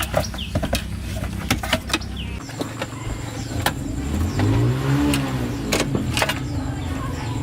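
Car engine running steadily, revved up once and back down to idle about two-thirds of the way through, with scattered clicks and knocks of work around it.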